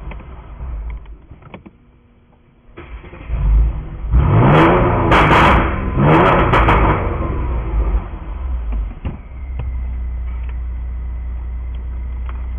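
Mercedes-Benz CLS400's twin-turbo V6 with a valved, straight-piped exhaust and a pops-and-crackles tune, revved twice with sharp pops and crackles as the revs fall, then settling to a steady idle.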